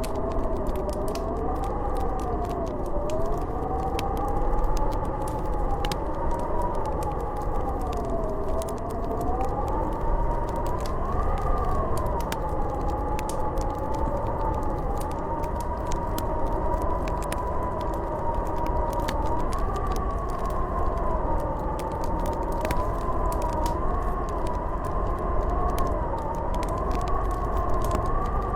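Snowstorm wind howling: a wavering whistle that slowly rises and falls in pitch over a low rumble, with scattered small pops and crackles from a wood fire.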